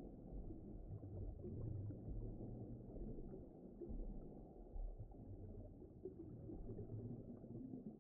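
Low, muffled rumbling underwater ocean ambience, a deep surging wash with no distinct calls or events.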